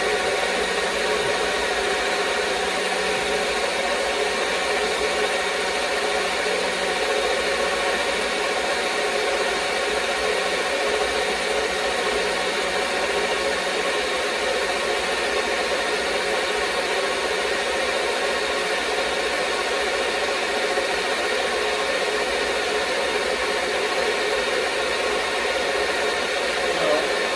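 NutriBullet blender motor running steadily, blending a smoothie.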